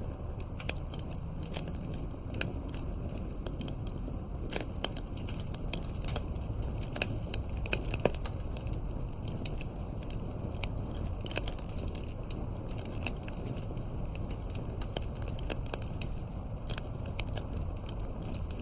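Campfire burning: irregular sharp crackles and pops over a steady low rush of flame.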